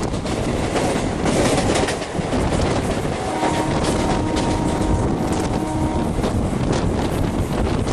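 Train running on the track, its wheels clattering over the rail joints with many sharp clicks. About three seconds in, a steady horn-like tone of several notes sounds for about three seconds and then stops.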